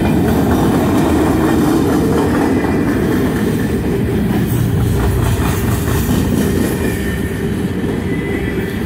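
Freight train's covered hopper cars rolling past at a grade crossing: a steady, loud rumble of steel wheels on rail, with the clack of wheels passing over rail joints.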